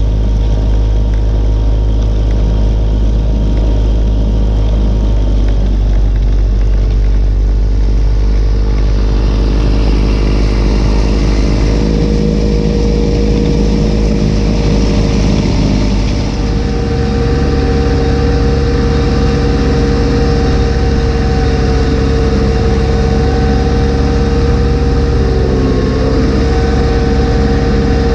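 Kubota B2601 compact tractor's diesel engine running steadily while snowblowing with its B2782B snowblower. The engine note shifts about halfway through.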